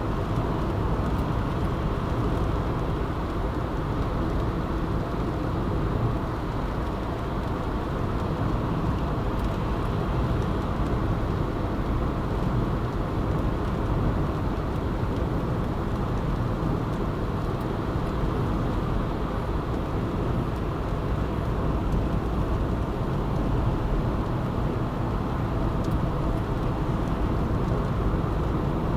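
Steady noise of a car driving along a road: a continuous mix of engine and tyre noise with no sudden events.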